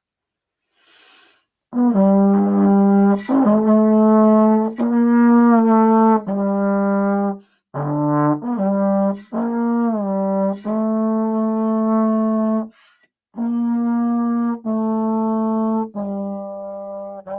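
Solo trombone playing a slow, phrased beginner melody, starting about two seconds in, with two short breaks between phrases.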